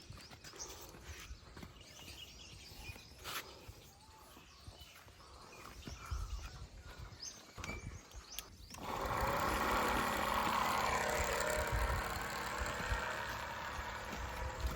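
Faint clicks and light chirps, then a small motor on a miniature model machine starts suddenly about two-thirds of the way through and runs at a steady pitch.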